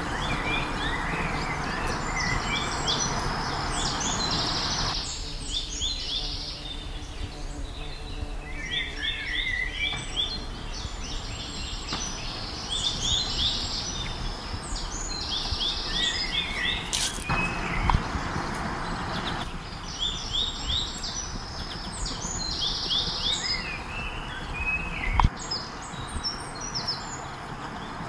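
Songbirds chirping in repeated bursts of quick high notes, over a steady low rushing noise that drops away about five seconds in and comes back briefly around eighteen seconds.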